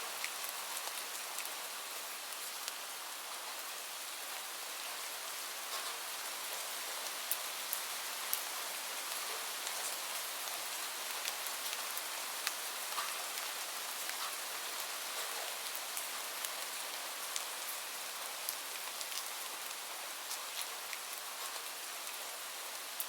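Steady hiss of gentle rain, with scattered sharp pops and crackles of a wood fire in a fireplace.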